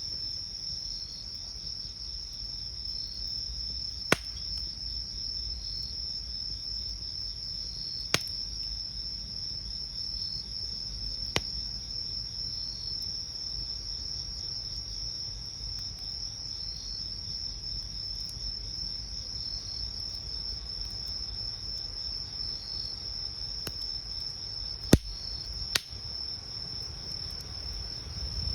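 Night insects trilling in one continuous high tone, with another insect chirping about every two seconds. A few sharp pops from a burning wood campfire break in, the loudest two close together near the end.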